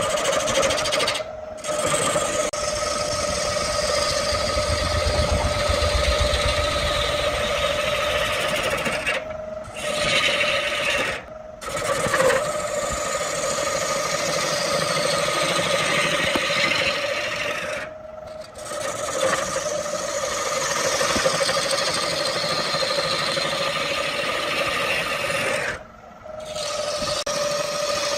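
Wood lathe running with a tool held against the spinning wood: a steady motor hum under a continuous rasping, scraping noise. The sound cuts out briefly several times.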